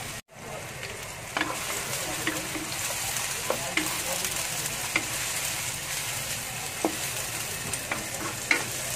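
Sliced garlic, bird's eye chillies, onion, ginger and lemongrass sizzling in hot oil in a wok while being stirred, with repeated knocks and scrapes of the stirring utensil against the pan. The sound drops out briefly just after the start, then the sizzling runs steadily.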